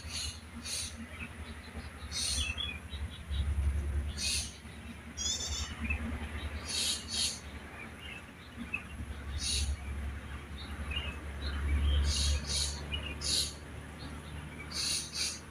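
Wild songbirds calling: short, high chirps repeated irregularly, with a quick run of falling notes about five seconds in. A steady low rumble lies under the calls.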